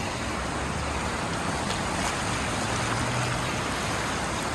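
Gulf surf washing onto the beach: a steady, even rushing of waves breaking at the shoreline.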